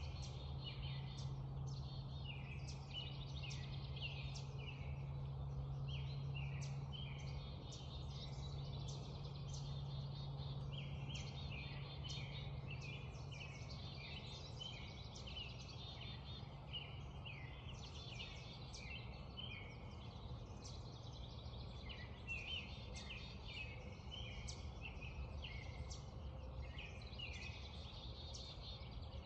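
Dawn chorus: many songbirds chirping and trilling at once, densely overlapping, over a steady low rumble, with a low hum that fades after about the first half.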